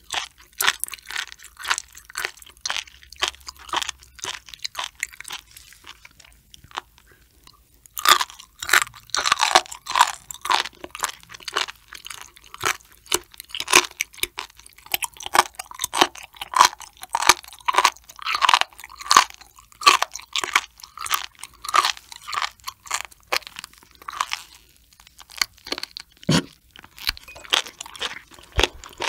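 Close-miked chewing of raw sturgeon spinal cord, a firm rubbery cord, in a quick run of crunches. The crunches come thicker and louder from about a quarter of the way in to about four-fifths of the way through.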